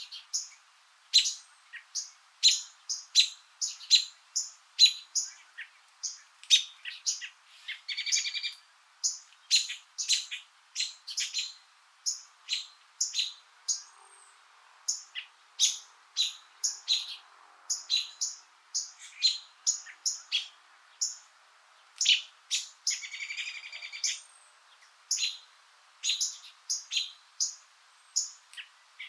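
Small birds chirping: quick, sharp, high chirps about twice a second, with a longer buzzy trill about eight seconds in and again near twenty-three seconds.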